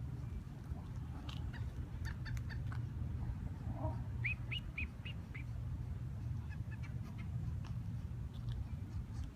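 A bird calling: a quick series of about five short chirping notes about four seconds in, with a few fainter notes and ticks before and after, over a steady low rumble.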